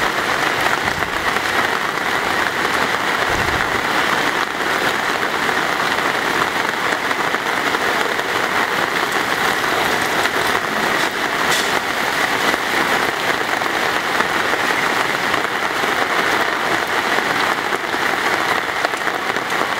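Heavy rain falling steadily on a paved road, an even hiss of drops with no letup.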